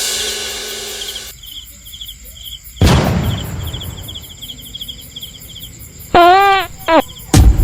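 Rhythmic, cricket-like chirping trills repeating throughout. Over them come a loud sudden hit about three seconds in, a loud wobbling pitched tone in two parts around six to seven seconds in, and another sharp hit near the end.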